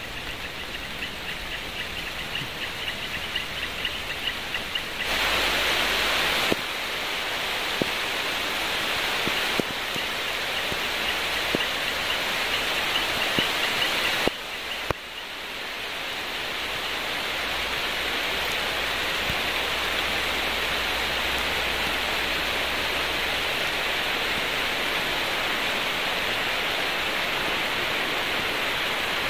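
Steady rain falling, a continuous hiss that shifts abruptly in level a few times.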